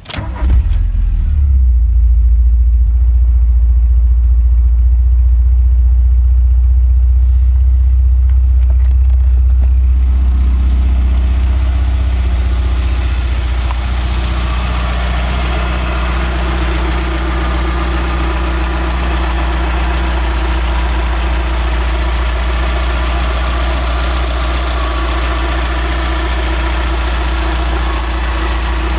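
A 1990 VW Golf 2 GTI's 1.8-litre eight-valve four-cylinder engine (PB, no catalytic converter) starts about half a second in and then idles steadily with a deep, strong bass. It eases slightly after about ten seconds as the idle settles.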